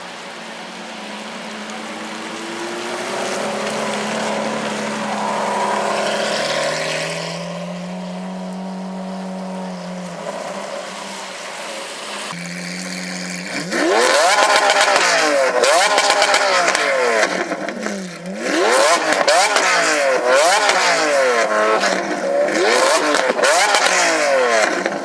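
Lamborghini Aventador's V12 running through Akrapovič exhausts, first at low revs with its pitch slowly rising and falling, then, about halfway in, revved hard again and again in quick rising and falling sweeps with sharp crackles and bangs from the exhaust.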